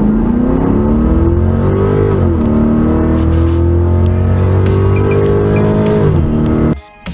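LS-swapped 1970 Camaro SS's V8 accelerating hard: the engine note rises, drops once about two seconds in as the automatic transmission upshifts, then climbs steadily again before easing off near the end and cutting off abruptly.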